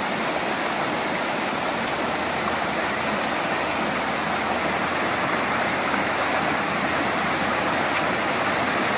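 Steady rushing of water falling and running over rocks at Phlio Waterfall.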